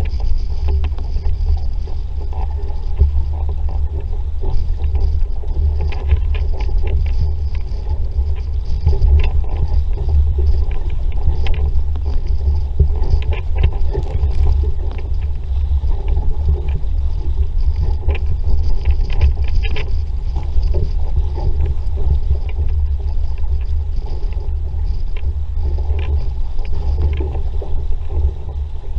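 Sailing dinghy under way in a strong breeze: heavy wind buffeting on the microphone over water rushing and splashing against the hull, with frequent small spray crackles.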